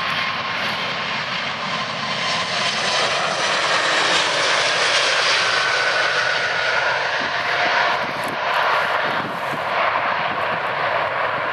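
Airbus A380's four jet engines running with a steady loud roar, with a faint whine that slides in pitch through the middle.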